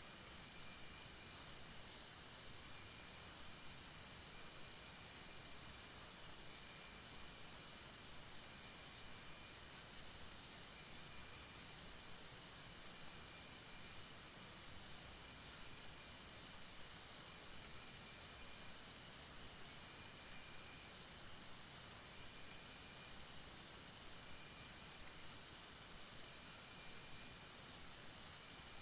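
Night-time insect chorus, crickets or similar: a dense, fast-pulsing high-pitched chirring with a fainter, lower chirp that comes and goes, and a few very high short ticks and brief trills over it.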